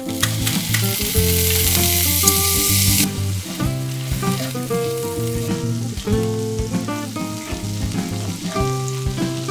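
Food sizzling in a hot frying pan: a loud hiss that drops suddenly about three seconds in and carries on more softly. Background music plays over it.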